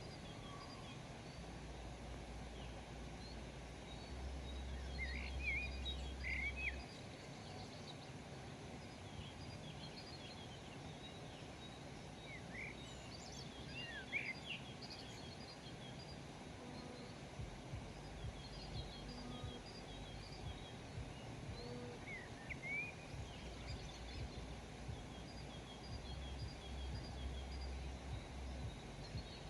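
Several small birds calling with short, scattered chirps and quick sweeping notes over a steady outdoor hiss, with a low rumble underneath at times.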